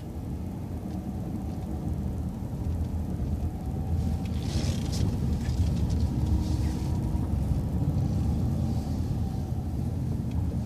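City transit bus moving slowly, its engine and road noise a steady low rumble, with a couple of brief hisses about halfway through.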